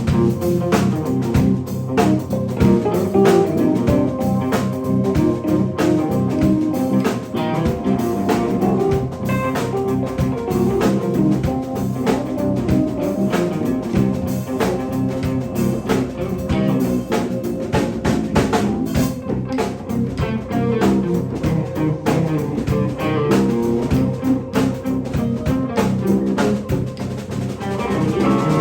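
Live band playing an instrumental blues-style jam: electric guitar over a drum kit.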